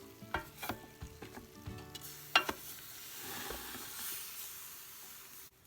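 Broiled chicken pieces sizzling in a Ninja Foodi air fryer basket as they are turned over, with scattered clicks of a utensil against the basket and one loud clack about two seconds in. The sizzling cuts off suddenly near the end.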